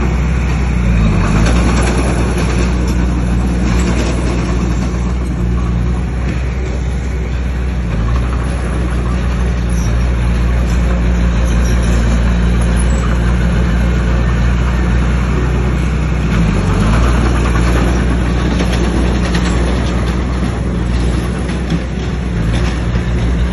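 Heavy diesel engine of an earthmoving machine running under steady load, its pitch dipping briefly about a second in and again around sixteen seconds in, with light clatter over it.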